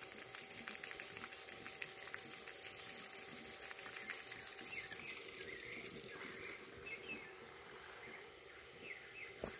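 Outdoor ambience: a steady hiss, with faint bird chirps coming in from about halfway through.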